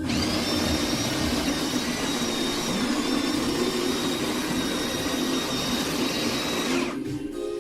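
De'Longhi La Specialista espresso machine running: a loud, steady hiss with a faint high whistle that starts abruptly and cuts off after about seven seconds.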